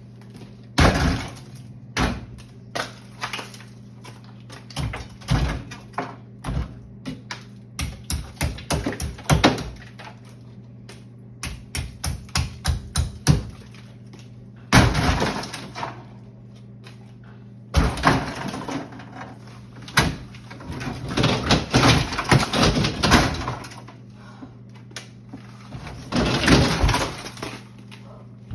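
Ice being knocked and broken loose inside an iced-over old fridge: many sharp knocks and cracks, some in quick runs, with a few longer noisy crunching stretches of a second or two.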